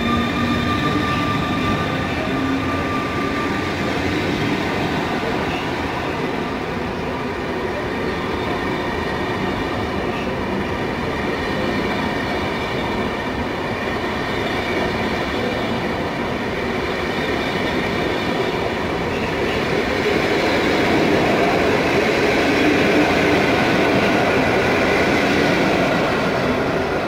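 Newag Griffin EU160 electric locomotive moving off with a steady whine of several high tones that fades out over the first few seconds. Then a rake of Intercity passenger coaches rolls past with continuous wheel-on-rail rumble, louder near the end.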